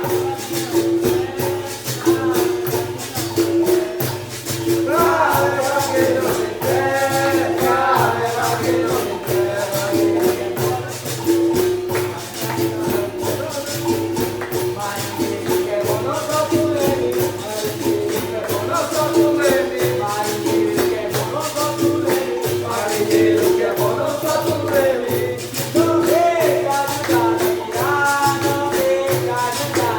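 Capoeira bateria playing: a berimbau's pulsed twang repeating steadily under pandeiro jingles and shaken caxixi, with voices singing a capoeira song over it.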